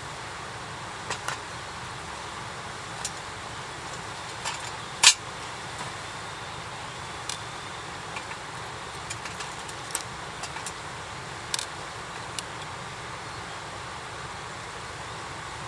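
Wood fire crackling: irregular sharp pops over a steady hiss, with one louder pop about five seconds in.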